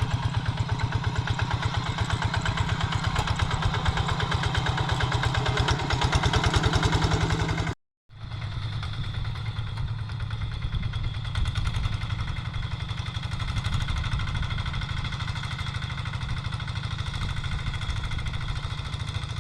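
Quick G3000 two-wheel hand tractor's single-cylinder diesel engine running steadily with a rapid, even chugging, pulling a plow through dry soil. The sound breaks off for a moment about eight seconds in, then carries on.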